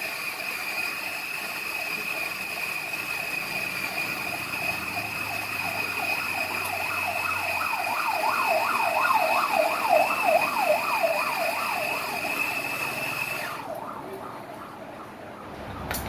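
A siren warbling quickly up and down, about two to three sweeps a second, swelling louder and then fading as it passes, over a steady high-pitched whine that stops abruptly near the end.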